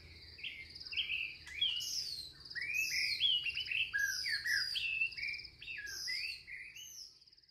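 Several birds singing together: many quick overlapping chirps and whistled notes with a repeated buzzy trill, fading out near the end.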